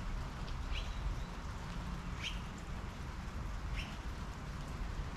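Steady rain falling on a wet patio table and garden, with a small bird chirping three times, about a second and a half apart.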